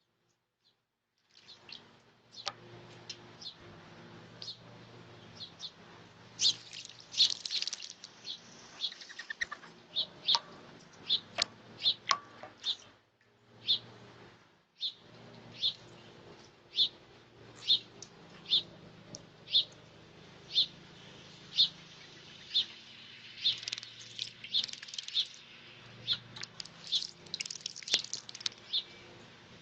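A small bird bathing in a shallow bowl of water, its wings fluttering and splashing in bursts, with a sharp chirp about once a second.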